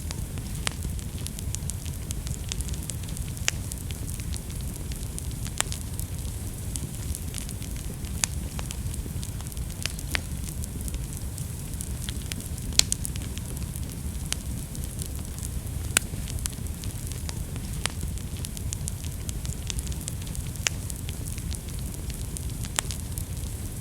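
Wood fire burning in a fireplace: a steady low rumble of the flames with irregular crackles and occasional sharper pops.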